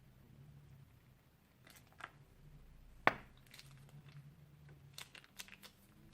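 Crunchy slime and its plastic piping bag being handled: scattered crackles and crinkly clicks, with one sharp, loud snap about three seconds in.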